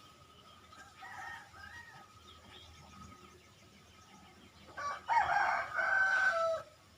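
Rooster crowing: a fainter call about a second in, then a loud crow of about two seconds near the end whose pitch drops at its close. A faint steady high tone runs underneath.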